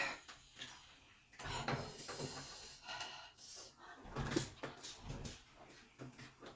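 Close-miked eating of raw bean sprouts: irregular crunching and chewing with wet mouth clicks and smacks, loudest at the very start and again about four seconds in.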